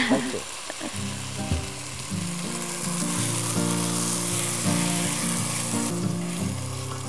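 Basmati rice frying in butter in a pot, sizzling as liquid is poured in and stirred with a wooden spoon. The sizzle dies away about six seconds in. An acoustic guitar plays chords alongside from about a second in.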